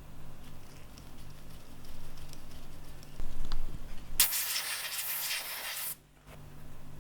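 A few light clicks of handling, then a loud hissing spray lasting under two seconds that stops abruptly.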